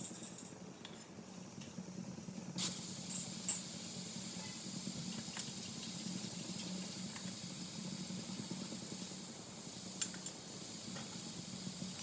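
A few light clinks of a utensil on a pan. About two and a half seconds in, a sudden loud sizzle starts as something goes into hot oil, and it sizzles steadily with occasional clinks of a stirring spoon.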